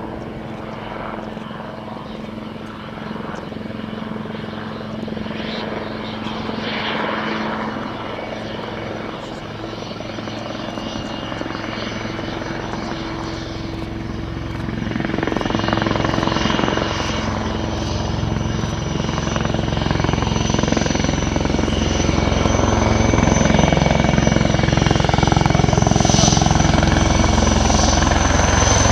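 Helicopter rotor and engine running, growing steadily louder, with the low rotor beat strengthening from about halfway through.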